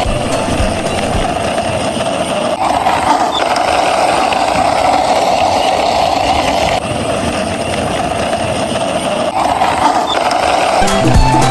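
Steady mechanical running noise, like a vehicle, that changes abruptly a few times; music with drums begins right at the end.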